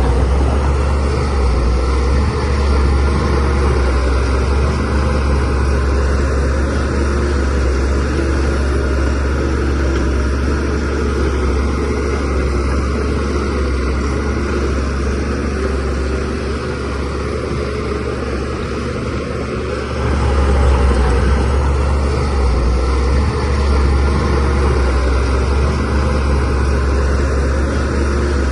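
A DH17C3PRO bulldozer's diesel engine running steadily as it works, growing louder again about twenty seconds in.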